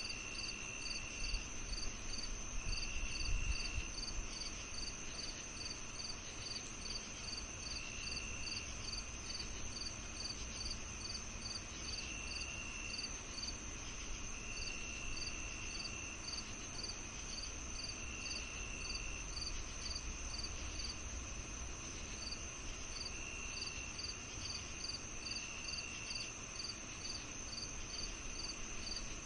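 Crickets and other insects chirping on a summer evening: a steady high whine, a regular high chirp about two to three times a second, and short lower trills every few seconds. A low rumble swells briefly in the first few seconds.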